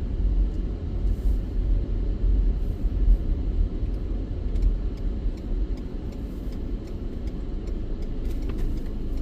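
Car running at low speed: a steady low engine and road rumble heard from inside the cabin.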